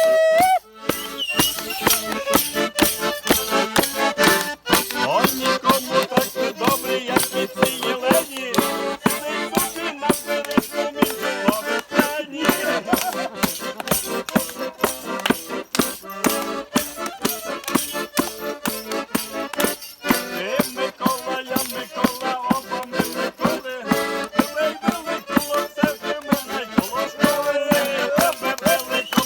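Folk band playing a kolomyika dance tune: an accordion melody over a quick, steady beat of drum and rattling percussion.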